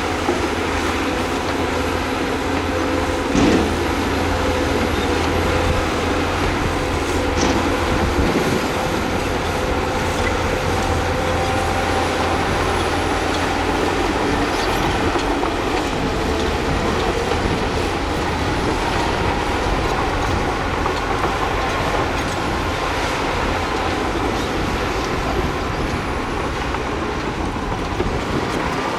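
Bulldozer working: a steady diesel engine with the running noise of its steel tracks and faint high squeals, and a few sharp knocks, the loudest about three and a half seconds in.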